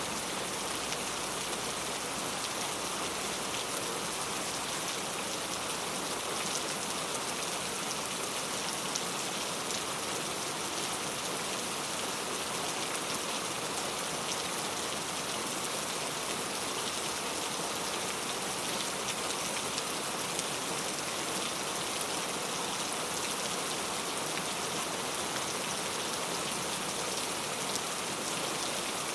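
Heavy rain falling, a steady dense hiss of drops striking hard surfaces, unchanging in strength.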